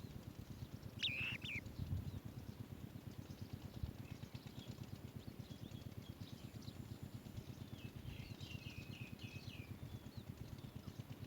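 Bird chirps: one sharp call about a second in and a quick run of short chirps near the end, over a steady low rumble.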